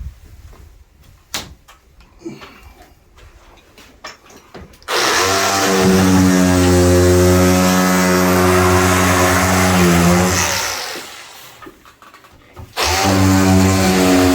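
Handheld power tool running in two bursts: a few knocks, then about five seconds of steady motor running that winds down, and after a short pause a second run starts near the end.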